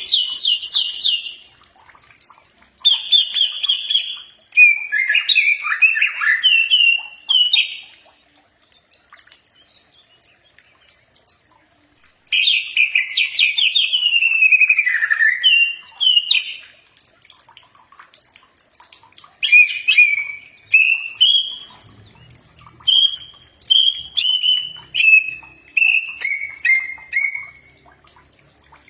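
Cucak ijo (leafbird) singing in bouts of quick, varied whistled chirps and warbles, with short pauses between them. The last phrase is a run of short notes stepping down in pitch.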